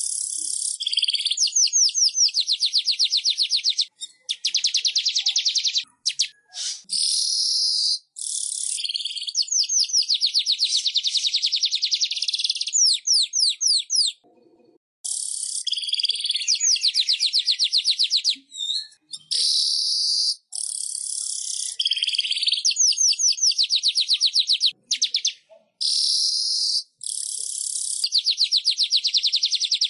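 Manyar (weaver bird) singing: long rapid high-pitched trills lasting a few seconds each, broken by short pauses and a few quick chirps.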